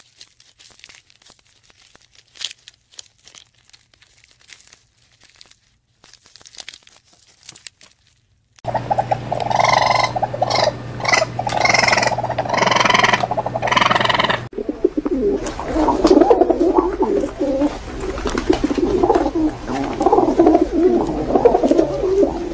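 Faint scattered clicks, then from about nine seconds a louder stretch of sound over a steady low hum, and from about fourteen seconds a feral pigeon cooing, a low warbling coo repeated over and over.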